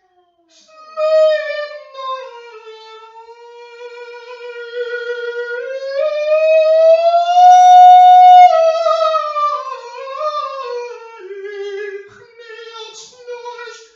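A solo high voice, soprano range, sings a slow wordless melody. It glides between notes and swells to a long held high note about halfway through, then wavers lower and stops near the end.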